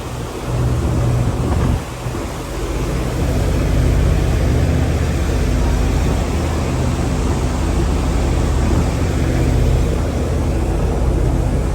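Steady low drone of a moving vehicle's motor with a rushing noise over it, heard from on board; it dips briefly about two seconds in.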